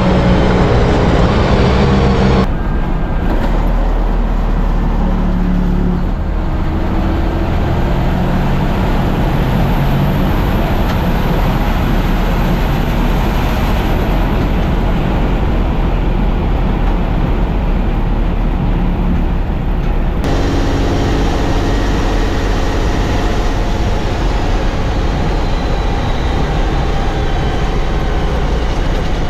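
Race trucks' diesel engines running hard on track, the engine note rising and falling with gear changes and throttle. The sound changes abruptly about two and a half seconds in and again about twenty seconds in, as the footage cuts between shots.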